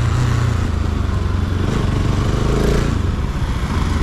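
Bajaj Pulsar RS200's single-cylinder engine running steadily, with a low even hum.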